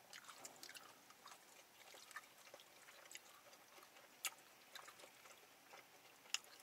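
Quiet chewing with scattered small wet mouth clicks from people eating food close to the microphone, and a couple of sharper clicks about four and six seconds in.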